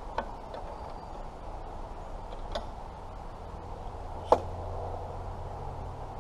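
Three short, sharp knocks a couple of seconds apart, the last one the loudest, over a steady low background hum.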